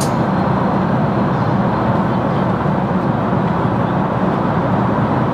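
Steady cabin noise of a jet airliner in flight: an even, low hum of engines and airflow.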